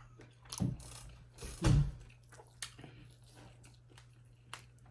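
Close-up chewing of food, with scattered sharp wet mouth clicks and a louder low thump about one and a half seconds in.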